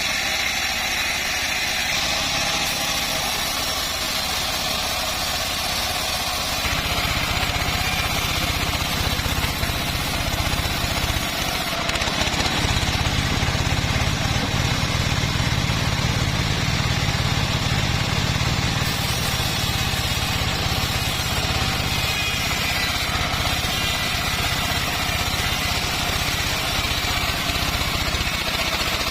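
Engine of a homemade bandsaw mill running steadily as it saws acacia wood. Its low hum grows stronger about a quarter of the way in and is strongest around the middle.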